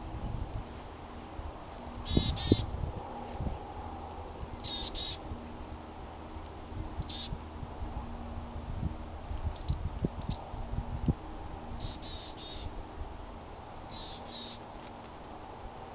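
A small songbird calling six times, two to three seconds apart, each call a few quick high chirps followed by a lower buzzy note.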